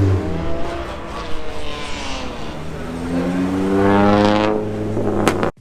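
A car engine revving hard, its pitch climbing over a couple of seconds as it accelerates, before the sound cuts off suddenly near the end.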